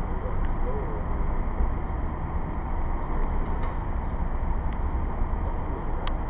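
Steady low rumble of cars idling and creeping forward in a loading line, with a few faint clicks.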